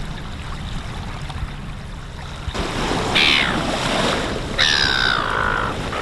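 A bird gives two harsh calls that fall in pitch, the second one longer, over a steady outdoor rush that grows louder about two and a half seconds in.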